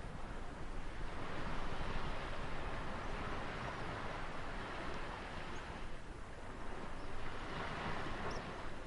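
Ocean waves washing onto a shore, a steady rushing that swells twice, once about a second or two in and again near the end.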